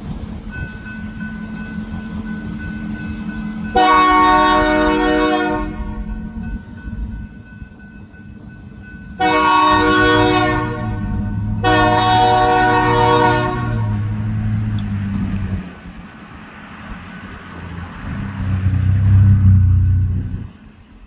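Diesel freight locomotive's air horn sounding three long blasts, about four, nine and twelve seconds in, over the steady low rumble of the locomotive's diesel engine, which swells louder near the end.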